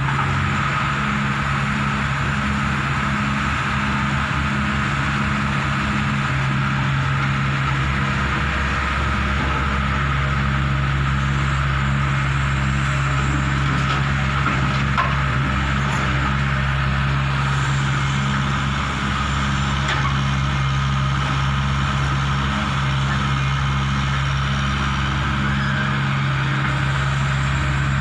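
Diesel engine of a Hitachi 120 excavator running steadily with a constant low hum while it loads a dump truck.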